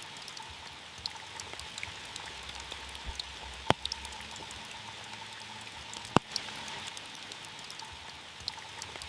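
Steady rain falling on a car, with many scattered drop ticks and two louder sharp taps, about two and a half seconds apart, from heavier drops striking the car.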